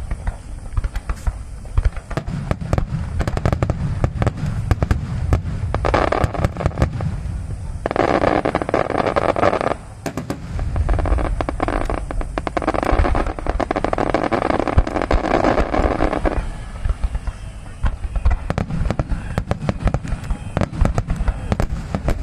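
Large aerial fireworks display: shells bursting in dense, rapid succession, with many sharp reports over deep, continuous booming.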